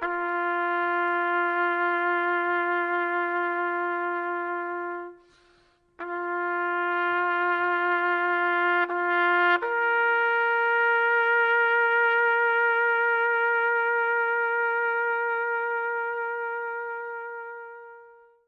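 Solo trumpet playing a slow call of long held notes, with a brief pause about five seconds in; the last note fades out.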